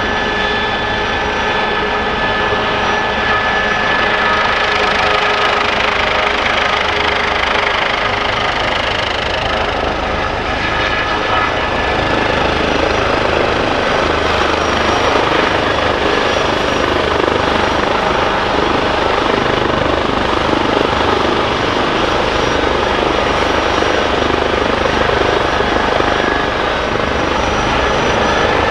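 Helicopter running loud and steady, rotor and engine noise with a high whine of steady tones over the first ten seconds or so. From about twelve seconds in it grows a little louder and coarser.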